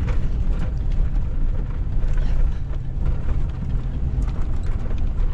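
Steady low rumble of a vehicle driving slowly along a rough back road, heard from inside the cab, with a few light knocks.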